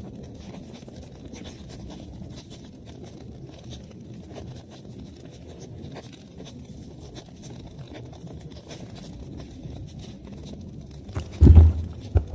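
Wood fire burning in a fireplace: a steady low rush with small, scattered crackles. Near the end come a couple of loud, low thumps.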